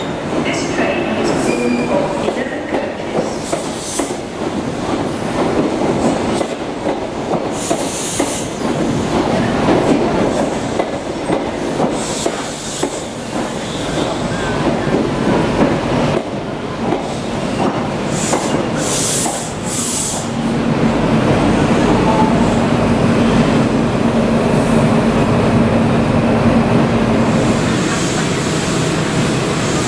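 Midland Pullman HST train moving slowly along a station platform: coaches rumbling on the rails with repeated high wheel squeals. About twenty seconds in, this gives way to the steady hum of a Class 43 power car's diesel engine as the train stands at a platform.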